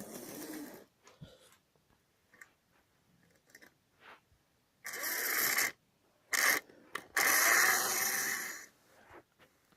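Small model train running along the track in short spurts, a mechanical whirring and rattling that starts and stops: one burst about five seconds in, a brief one just after, and a longer run of about a second and a half near the end.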